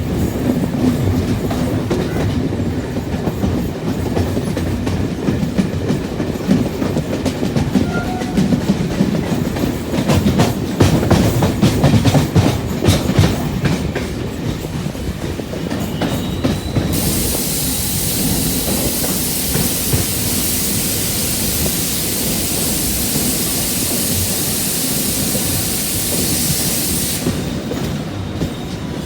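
Local passenger train running at speed, its wheels clattering over the rail joints in quick, irregular clicks. About halfway through, a steady high hiss comes in and lasts around ten seconds.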